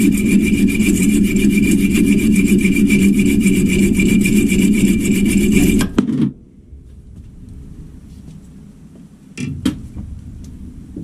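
Metal lathe parting off a brass bar: the parting tool cutting with a loud scraping noise carrying a high whine, pulsing fast and regularly. About six seconds in the cutting noise stops suddenly, leaving a quiet steady hum, and there are two sharp knocks near the end.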